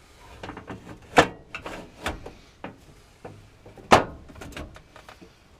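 A run of knocks and clattering with two loud bangs about three seconds apart, the first a little over a second in and the second near four seconds.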